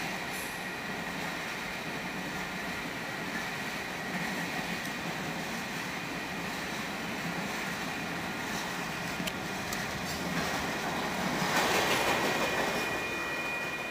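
Freight train rolling through a grade crossing: a steady rush of wheels on rail with a thin steady high tone over it, growing louder for a couple of seconds near the end.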